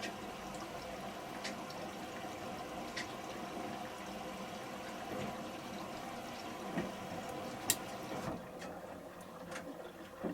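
A Samsung Series 5+ front-loading washing machine filling with water at the start of its wash cycle. The water runs steadily, with a few short sharp ticks, the loudest about eight seconds in.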